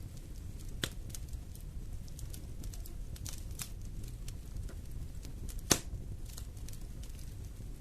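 Fire in a fireplace crackling: scattered small pops and snaps over a low, steady rumble of the flames, with a sharper pop about a second in and one loud pop about three quarters of the way through.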